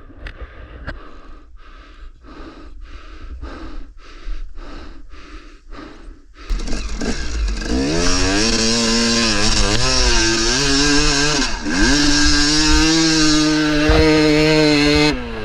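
A soft regular pulsing about twice a second, then about six seconds in a KTM 300 two-stroke dirt bike engine comes in loud, revving up and down under throttle with a brief dip in the middle, before dropping off near the end.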